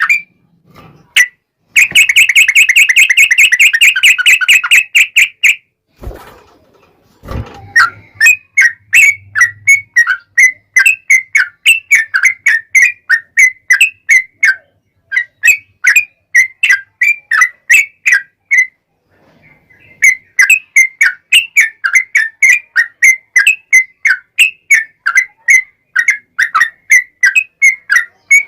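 Yellow-vented bulbul (trucukan) singing in a long, fast run: a dense rattling trill about two seconds in, then a steady stream of short bubbling whistled phrases at about two a second, with two brief pauses.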